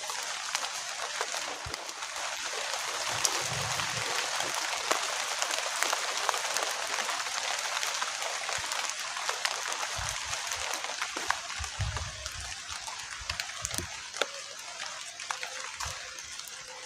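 Heavy rain falling, a steady hiss dotted with many sharp ticks of drops striking close by, with a few dull low thumps in between.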